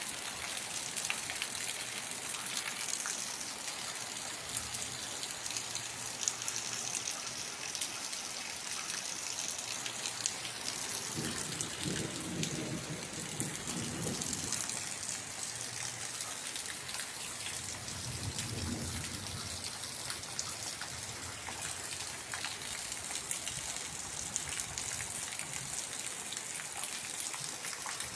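Steady rain falling, many drops pattering on surfaces, with two low rumbles in the middle.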